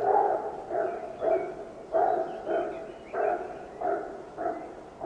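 A dog barking repeatedly, about nine barks in an even run, one every half second or so.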